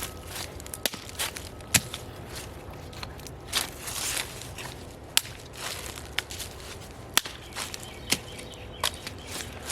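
Wood fire crackling in a fireplace: irregular sharp pops and snaps from the burning logs over a steady low rumble of the flames, with a loud pop a little under two seconds in.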